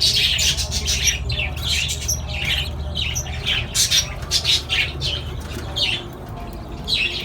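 Many small parrots in an aviary squawking and chattering, with sharp, overlapping calls all through, over a steady low hum.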